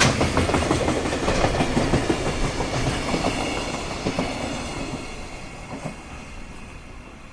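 Freight train's wagons rolling through at fairly low speed, wheels clattering over the rail joints; the clatter fades away over the last few seconds as the train passes.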